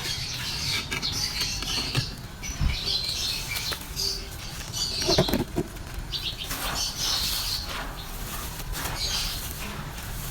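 Dry, brittle material being crumbled in a clay pot: irregular crunching and crackling with gritty patter, in uneven bursts throughout.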